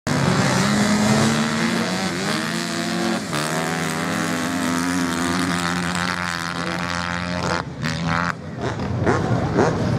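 Racing motorcycle engine at high revs, climbing in pitch and changing up a gear about three seconds in, then holding steady before dropping away near the eight-second mark.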